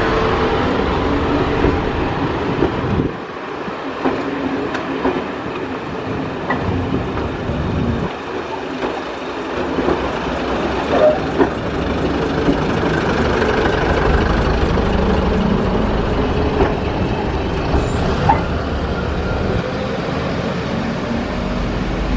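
Running noise of a heritage passenger train heard aboard a Mk1 coach: a steady rumble of wheels on rail with scattered small clicks and knocks, the deep rumble dropping away twice and building up again over the second half.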